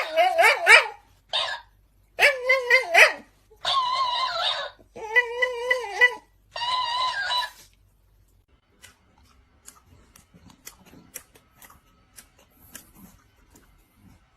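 A dog giving about six drawn-out, wavering whining calls over the first half, then only faint clicks and rustles.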